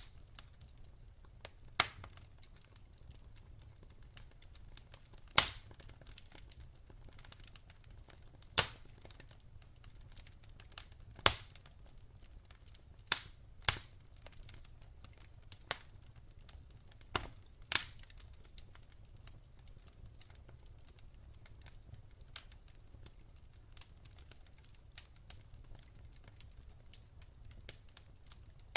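Campfire crackling, with sharp pops of burning wood, about ten loud ones in the first eighteen seconds and only faint crackles after, over a steady low rumble.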